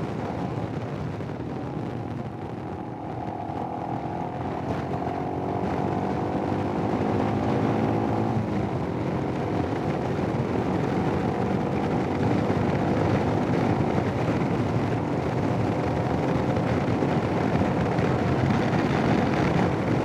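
Royal Enfield Himalayan's single-cylinder engine running while riding, under a steady rush of wind noise on the helmet headset microphone. For the first several seconds the engine's tone rises slightly in pitch, then sinks back into the wind.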